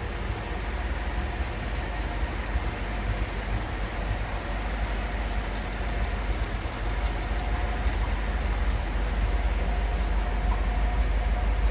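1957 Ford Thunderbird's E-code 312 V8, with dual four-barrel carburettors, idling steadily, growing gradually a little louder toward the end.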